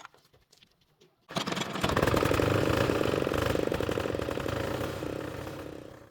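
Small diesel engine starting about a second in and running with a rapid, steady beat, easing off slightly before it cuts off abruptly at the end.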